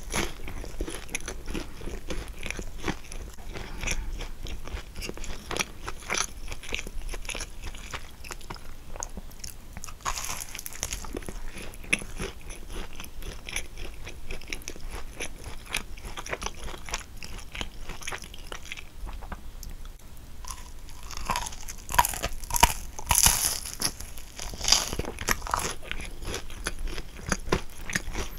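A person chewing kouign-amann, the caramelized, flaky crust crunching and crackling in the mouth, with a run of louder crunches a few seconds before the end.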